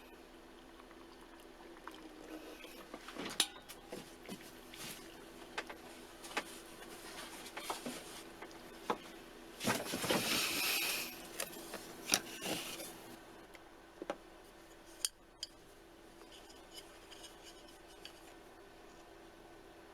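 Scattered clicks and clinks of a cup noodle container and utensils being handled, with a short hiss about ten seconds in.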